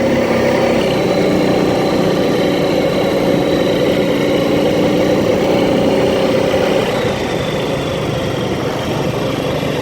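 Off-road quad bike engine running at a steady speed, easing off slightly about seven seconds in.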